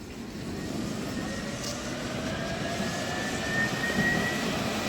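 Alstom Citadis tram pulling away, its traction motors giving a rising whine that grows louder as it gathers speed.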